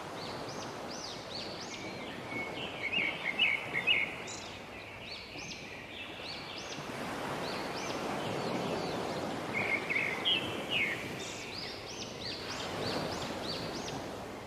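Birds singing short, repeated rising chirps over a steady rush of fountain water. The water swells louder twice, and quick runs of chirps are the loudest moments.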